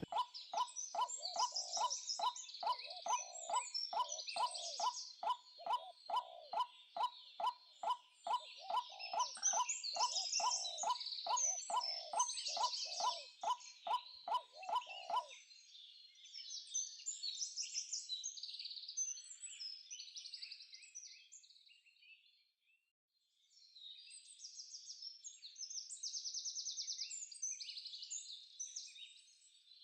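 Rapid, even knocking, about three strokes a second, each with a short ringing note, that stops about halfway through. Birds chirp throughout.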